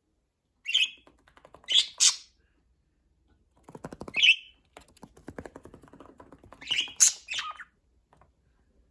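Pet budgerigar giving short, sharp squawking chirps, about five in all, with runs of rapid clicking chatter between them.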